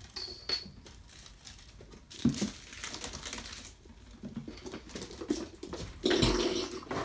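Kittens at play: scattered rustles, taps and soft thumps of small paws and a crinkle ball on the floor, with a louder rustling burst near the end.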